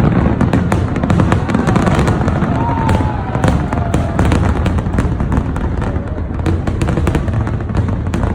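New Year fireworks display going off continuously: dense crackling bangs over a steady low rumble.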